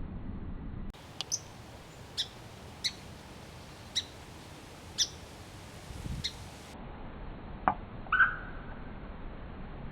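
Slowed-down bird calls: a run of short, sharp chirps about once a second, then a click and a short call with a drawn-out tail near the end.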